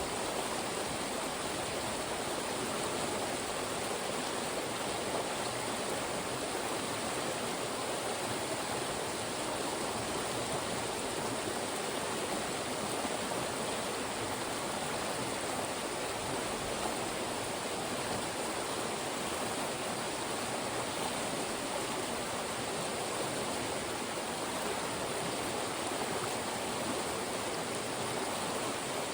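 Fast-moving mountain stream rushing through narrow channels between rocks, a steady, even rush of water.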